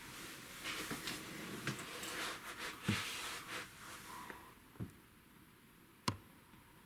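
Close rustling and crackling, then three separate sharp clicks, the last the sharpest. No aircraft engine is heard.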